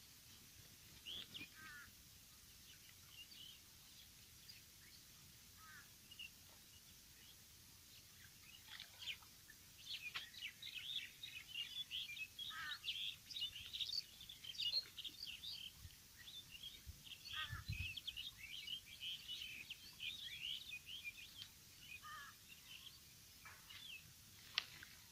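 Small birds chirping, many short high calls overlapping and busiest in the middle, with a few short falling calls repeated every few seconds.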